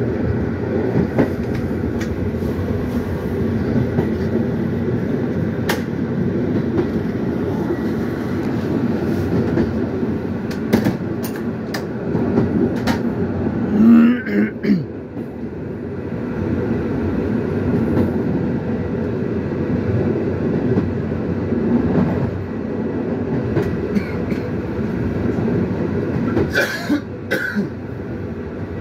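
Passenger train running, heard from inside at its rear: a steady rumble of wheels on track, with irregular sharp clicks as the wheels pass rail joints. There is a brief louder noise about halfway through.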